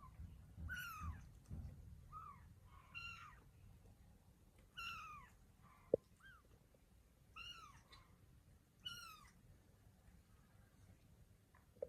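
Kitten mewing: about seven short, high, thin mews, each dropping in pitch, a second or two apart. One sharp click about halfway through.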